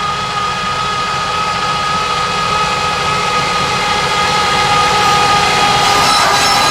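Heavy engine running steadily with a high, steady whine on top, growing slightly louder toward the end.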